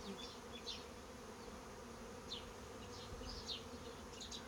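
Honey bees buzzing over an open hive, a steady hum, with a few short high chirps over it.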